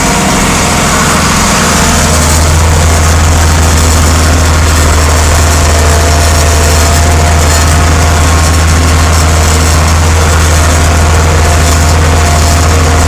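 Vintage farm tractor engine running steadily at a constant speed, a loud low hum that fills out slightly about two seconds in.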